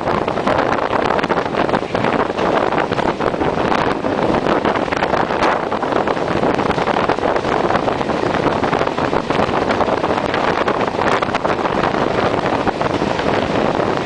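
Steady rushing noise of a moving passenger train running on the rails, with wind buffeting the microphone.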